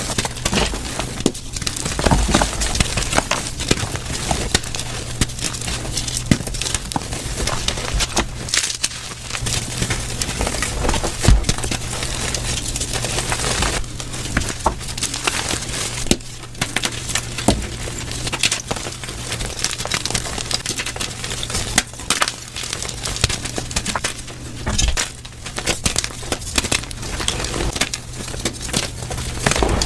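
Blocks of gym chalk being crushed and crumbled, a dense, continuous run of crunching and crackling, sped up to double speed.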